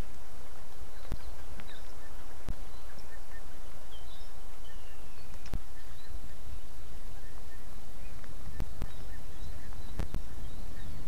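Steady rain hiss with occasional sharp drops ticking close to the microphone, and a few faint bird chirps about halfway through.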